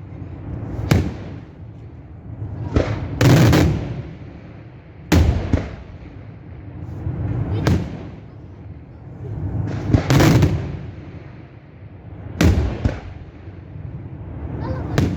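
Daylight fireworks display: loud bangs come every one to three seconds, some in quick pairs, each trailing off in a rumbling echo.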